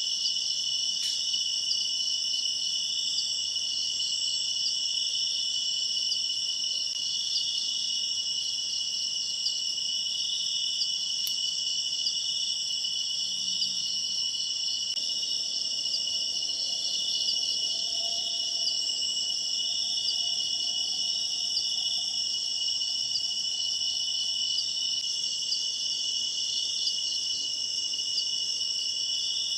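A chorus of night insects, crickets among them, chirping steadily: several high-pitched trills layered together with a fast pulsing that never lets up.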